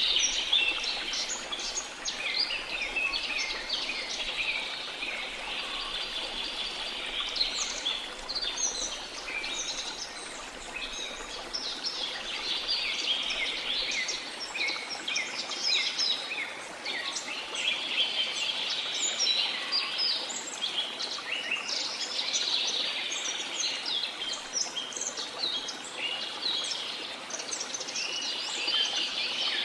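Many birds chirping and trilling in a dense, continuous chorus over a steady rush of falling water.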